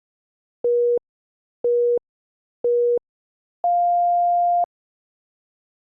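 Workout interval timer beeping a countdown: three short, equal beeps about a second apart, then one longer, higher-pitched beep marking the end of the interval.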